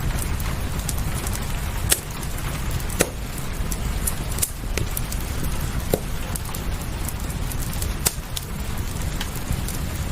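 Fireplace crackling, with a few sharp pops standing out about 2, 3, 6 and 8 seconds in, over a steady rushing rain noise with a deep rumble.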